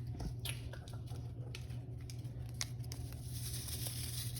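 Small packets of Sazón seasoning being torn open and rustled, with a few sharp ticks.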